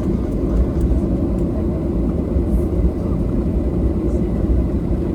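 Steady low rumble of a Boeing 737-800's engines and airframe heard from inside the passenger cabin, holding an even level throughout.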